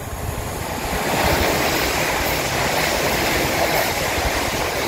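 Two coupled Class 360 electric multiple units passing through the station: a rushing noise of wheels on rail and moving air, which swells sharply as the train comes close and stays loud and steady from about a second in.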